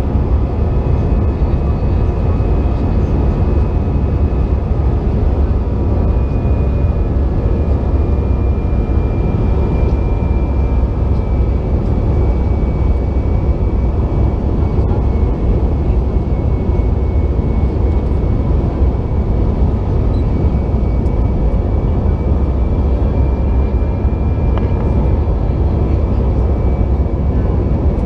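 Airbus A320 cabin noise heard from a window seat: the engines and the airflow give a steady, deep rush with a faint high whine that drifts slightly in pitch.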